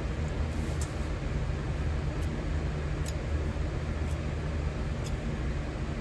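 Steady low rumble of a running metal-melting furnace, with a few faint light ticks over it.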